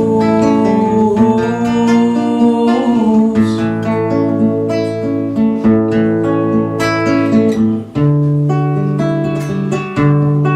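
Acoustic guitar played live, chords picked and strummed in an instrumental passage of a song, changing chord about eight seconds in.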